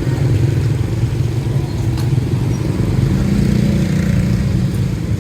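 Motorbike engine running close by amid street traffic, a steady low hum with a clearer engine note coming in about three seconds in.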